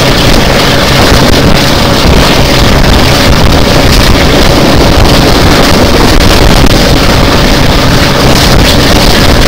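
Wind buffeting a microphone held out of a moving train's window, over the steady drone of the hauling Class 42 'Warship' diesel-hydraulic locomotive and the run of the coaches on the track. Loud and unbroken.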